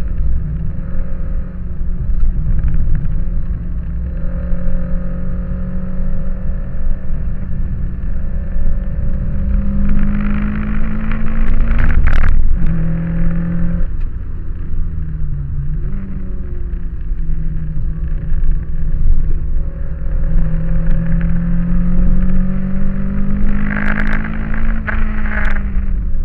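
Toyota Corolla AE86's 20-valve 4A-GE four-cylinder engine heard from inside the cabin while lapping a track under hard throttle, with road and wind noise. Revs climb, break sharply at a gear change about twelve seconds in, fall away briefly around fifteen seconds, then climb steadily again until near the end.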